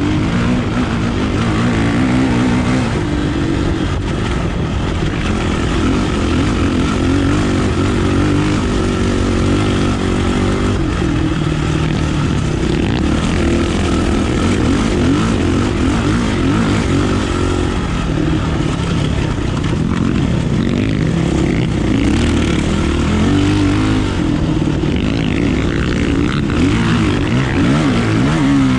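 Kawasaki KLX450R's single-cylinder four-stroke engine running on the move, its pitch rising and falling with throttle and gear changes.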